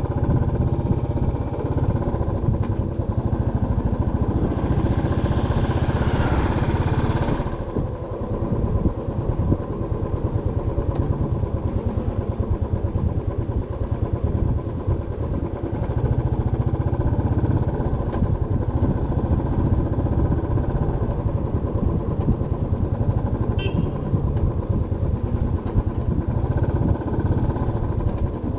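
Motorcycle engine running steadily while riding, with road and wind noise. A rush of hiss swells for about three seconds early on, and there is a single short sharp sound about 24 seconds in.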